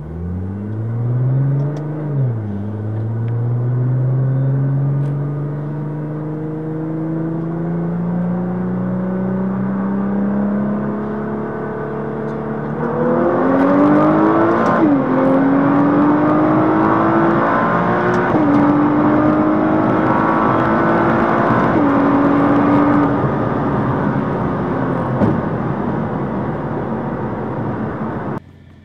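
Turbocharged performance car's engine, heard from inside the cabin, accelerating hard in a roll race. The revs climb and drop at an upshift about two seconds in, then rise slowly for a long stretch. About halfway through it gets louder and pulls through three more upshifts a few seconds apart.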